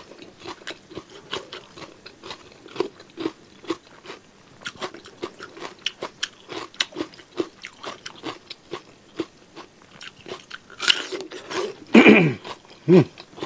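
Close-miked chewing: a steady run of short wet mouth clicks as food is chewed, then loud crunchy bites into a fresh cucumber near the end, the last followed by a short low vocal sound from the eater.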